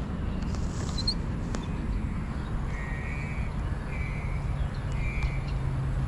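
A bird gives three short, harsh calls about a second apart over a steady low rumble.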